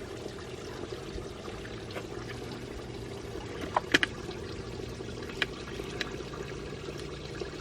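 A few light clicks and taps, as a small fitting and tools are handled, over a steady background hiss and hum.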